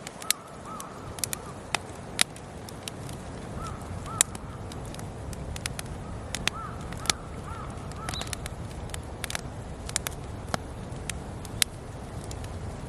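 Campfire wood crackling with irregular sharp pops. A bird calls in short arched notes, several of them in pairs.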